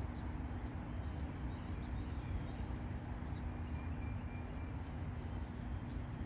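Steady outdoor background of low rumble with a faint continuous hum, and a few faint, short, high bird chirps scattered through it.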